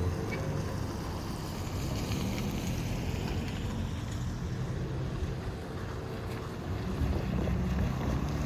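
Steady low rumble of vehicle noise with wind buffeting the microphone.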